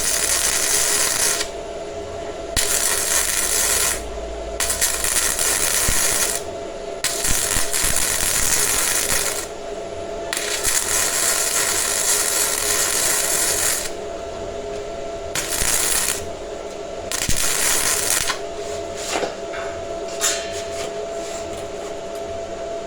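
A power tool running steadily while it works on steel, biting into the metal in repeated bursts of one to two seconds that are louder and hissier than the running hum between them.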